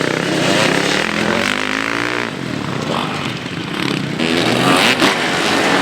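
Motocross motorcycle engines running hard and revving, with one bike's pitch climbing as it accelerates about a second and a half in.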